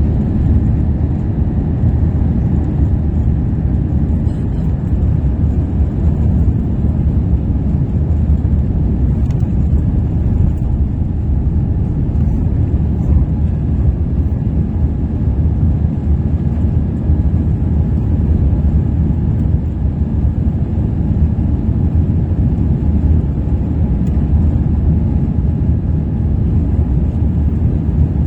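Cathay Pacific Airbus A350's Rolls-Royce Trent XWB engines during takeoff, a steady low rumble.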